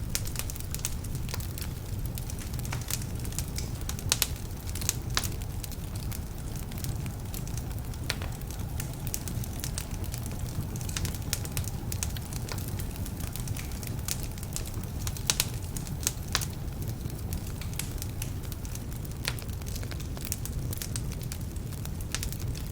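Wood fire burning in a fireplace: a steady low rumble of flames with irregular sharp crackles and pops, several a second, from logs that are a little damp.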